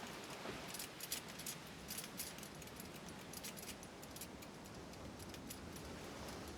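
Many faint, irregular high-pitched clicks and ticks over a soft hiss.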